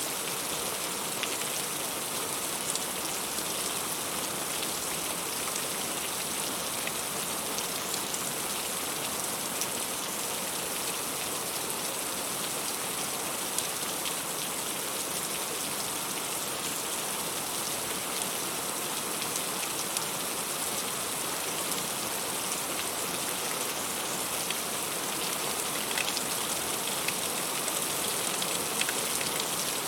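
Heavy rain falling steadily: an even wash of rain with many separate drops striking sharply throughout.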